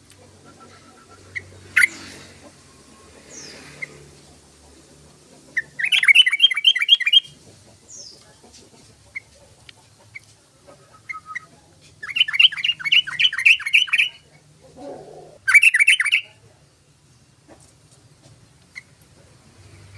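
Yellow-vented bulbul singing: three loud bursts of rapid bubbling notes, each one to two seconds long, with single short chirps in between.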